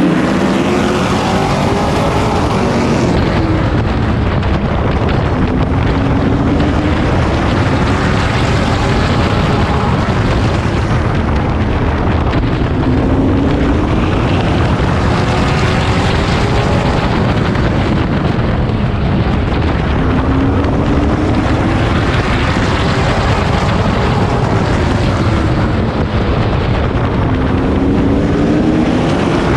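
Pro Truck race engine heard from on board at racing speed on a short oval. The revs climb on each straightaway and drop into each turn, about every five seconds, over constant wind and road noise.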